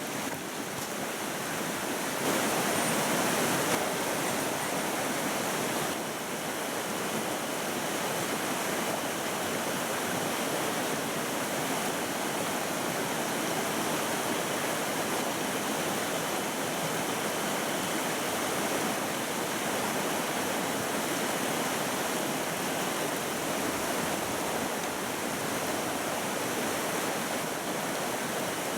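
Mountain stream rushing over rocks, a steady, even hiss of flowing water, slightly louder for a moment about two seconds in.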